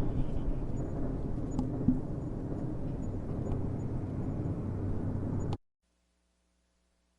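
Low, steady rumble of a train running, which cuts off suddenly about five and a half seconds in, leaving near silence.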